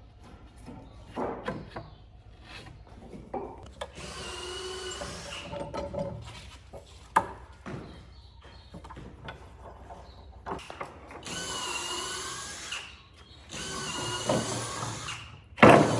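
A handheld power tool's small motor whining in a few short runs of a couple of seconds each, working wood, with sharp knocks between the runs and a loud knock near the end.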